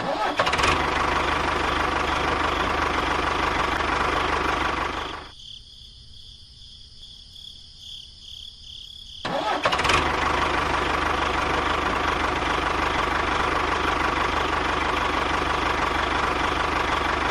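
A small engine or motor running steadily. It drops away abruptly for about four seconds near the middle, then comes straight back at the same level.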